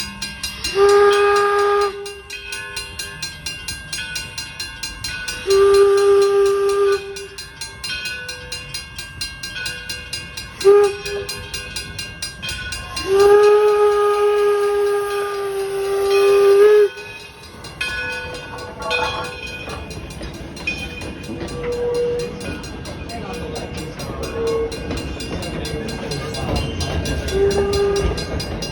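The 4-4-0 No. 7 D&LN steam locomotive's whistle blows long, long, short, long, the grade-crossing signal, and the last blast is held for several seconds. A short toot comes near the end. Beneath it runs the steady beat of the engine's exhaust as the train moves.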